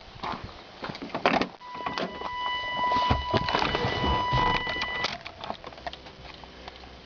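Clicks, knocks and rustling of someone handling the vehicle's door and keys, with a steady electronic warning tone from the dashboard sounding for about three and a half seconds in the middle.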